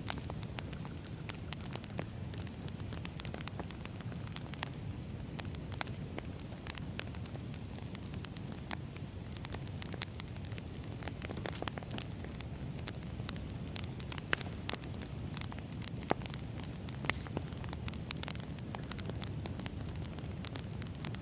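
Firewood burning: a steady low rumble of flames with frequent sharp crackles and pops from the logs.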